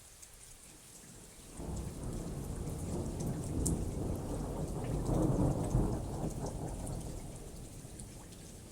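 A peal of thunder over steady rain. The low rumble sets in about a second and a half in, swells to its loudest around five to six seconds, then fades, while the patter of raindrops goes on throughout.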